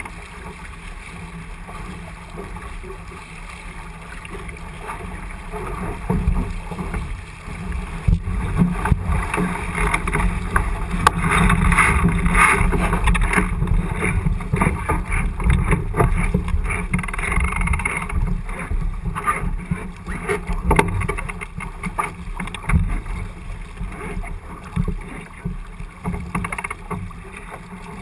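Wind buffeting the microphone and water rushing past the hull of a J80 sailboat under sail, with scattered knocks; it swells louder a few seconds in.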